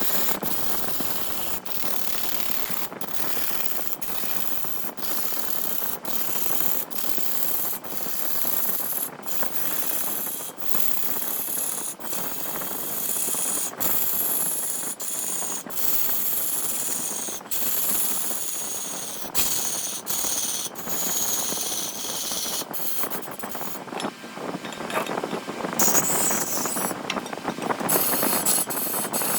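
Wood spinning on a large lathe with a tool or abrasive rubbing against it, a steady rasping hiss. A faint high whine falls in pitch several times, and the rasping grows louder near the end.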